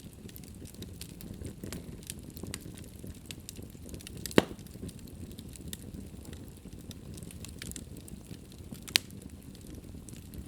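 Wood fire crackling in a fireplace: a low steady rush of flames with frequent small crackles, and two sharp loud pops of burning wood, the first a little under halfway through and the second near the end.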